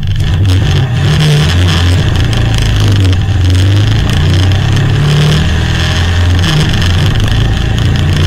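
Buckler 90's 1172 cc Ford four-cylinder engine, with an Elva overhead-valve conversion, running loud and hard as the open sports car accelerates away from the start line, its pitch shifting a few times as it climbs through the gears.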